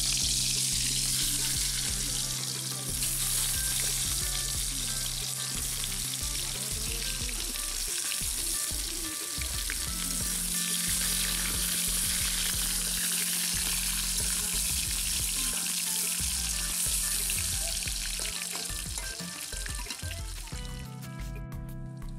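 Cut potato pieces sizzling as they fry in hot oil in a wok, with a metal spatula stirring them. The sizzle stops abruptly near the end.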